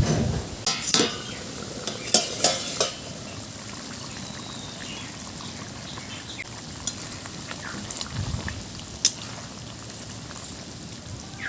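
Chicken kosha simmering and sizzling in a pot in a little water, part-way through cooking. Sharp clanks and knocks of the lid and stirring utensil against the pot come in the first three seconds, with one more sharp knock about nine seconds in.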